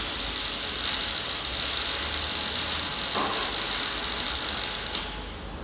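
A steady, loud hiss that cuts off about five seconds in.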